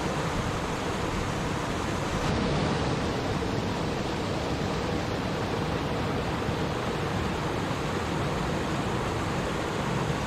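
Water in a stream flowing and babbling, a steady rushing.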